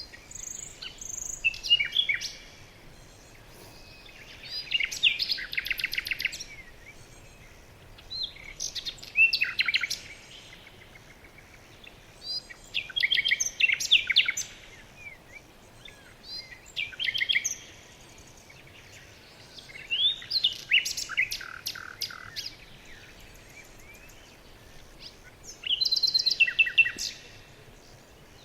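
A songbird singing, about seven phrases of quick chirps and trills, each lasting about two seconds and coming roughly every four seconds, over a faint steady background hush.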